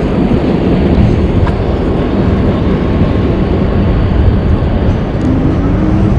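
Steady wind and road noise from riding an e-bike, heaviest in the low range, loud on the microphone, with a faint whine that rises slightly about five seconds in.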